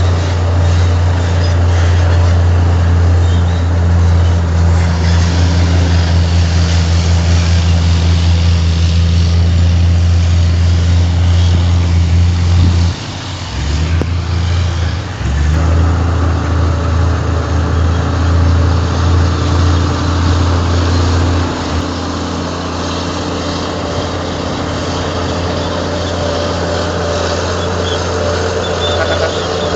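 Heavy diesel engine of earthmoving equipment working, a loud steady low drone. It dips briefly twice about halfway through, then settles to a quieter, steadier running note for the last third.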